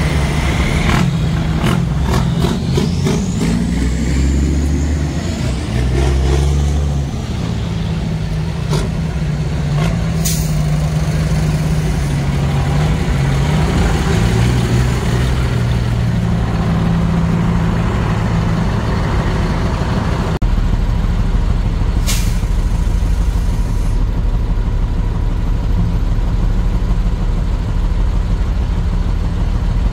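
Heavy diesel engines of trucks and loading machinery running, the engine note shifting as they work, with two short air-brake hisses, about a third of the way in and again past two-thirds.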